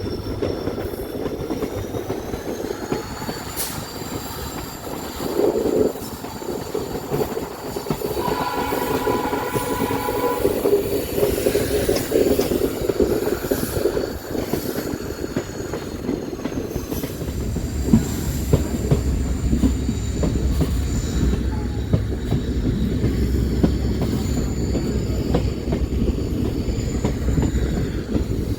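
Passenger train running on the rails, with a steady rattle and rumble and a thin high wheel squeal that rises and falls in pitch. A short horn blast sounds about eight seconds in, and the low rumble grows heavier from about seventeen seconds.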